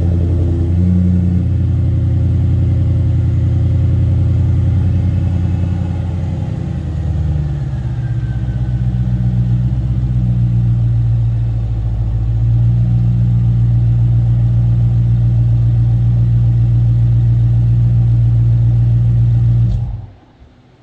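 Audi S6 engine running through a Milltek aftermarket exhaust: a loud, steady, deep exhaust note that shifts slightly in pitch about seven seconds in, then stops suddenly near the end.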